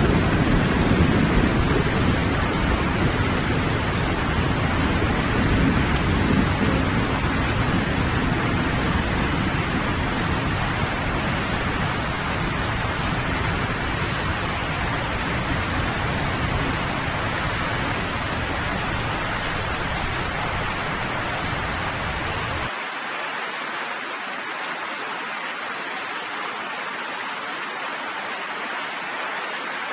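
Steady rain with a low thunder rumble that slowly dies away. The rumble cuts out suddenly about three-quarters of the way through, leaving only the hiss of the rain.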